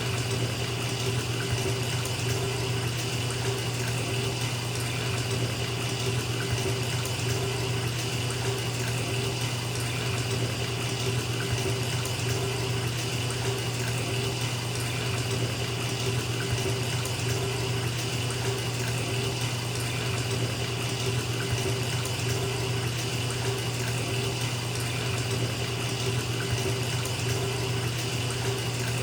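Water running steadily from a tap into a filling bathtub, an even, unbroken rush.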